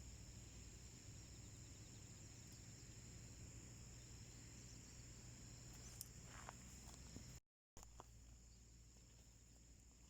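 Wood fire burning quietly in a small homemade wood stove, with a few faint crackles about six seconds in, over a steady high-pitched outdoor drone. The sound cuts out for a moment past the middle.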